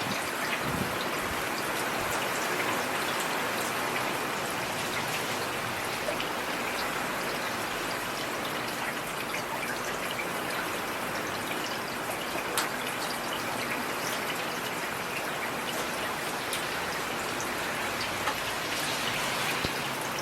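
Heavy rain falling steadily: a dense, even hiss with the patter of scattered individual drops.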